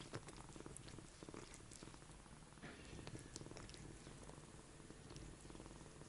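Oriental cat purring steadily, a continuous faint rumble with a few light clicks over it.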